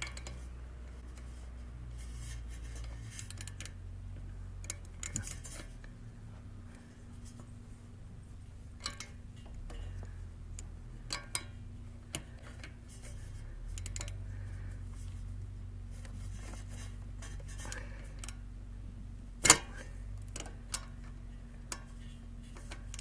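Scattered metallic clicks and clinks of hand tools working a nut off the metal starter-motor bracket of an ATV, over a steady low hum, with one sharp, louder clank about three-quarters of the way through.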